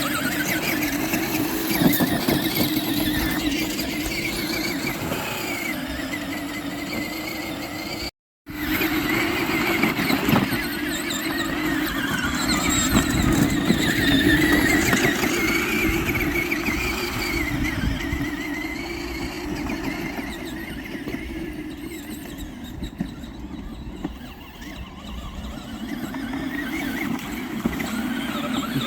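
Battery-powered ride-on toy truck's electric drive motors and gearbox whining as it drives through mud, the pitch wavering with the load. The sound cuts out briefly about eight seconds in.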